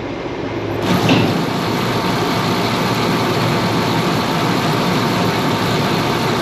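A grain auger is switched on about a second in and runs steadily with a loud, even rushing noise over a running engine.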